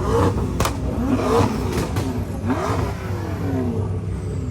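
Car engine revving in quick blips, its pitch rising and falling about three times, with a couple of sharp cracks, over the steady running of idling engines.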